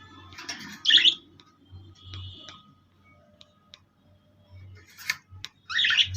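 Pet birds chirping and calling in short bursts, with two louder calls, one about a second in and one near the end.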